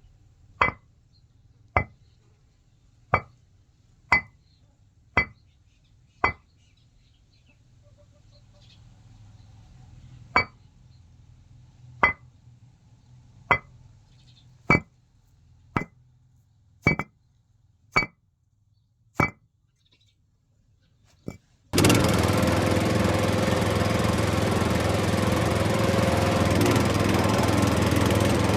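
Sharp single clinks, roughly one a second with a short gap in the middle, then a small motor starts suddenly near the end and runs steadily and loudly.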